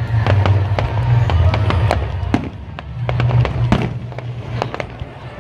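Aerial fireworks bursting and crackling, many sharp pops in quick succession, over steady music with a strong bass line.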